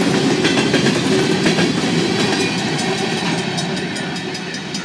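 Freight train's covered hopper cars rolling past: a steady rumble of wheels on rail with rhythmic clicking over the rail joints, easing off in the second half as the last car goes by.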